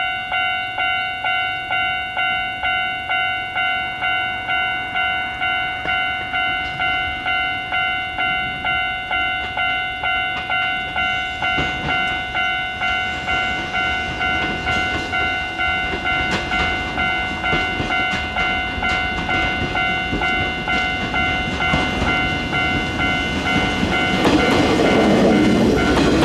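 A level crossing alarm bell rings steadily at just under two strokes a second while an electric train approaches. The rattle and clatter of its wheels over the rail joints build up and are loudest near the end as it passes.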